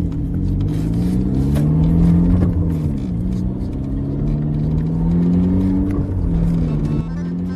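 Car engine running and revving as the car drives by, its pitch rising and falling several times. The sound changes abruptly about seven seconds in.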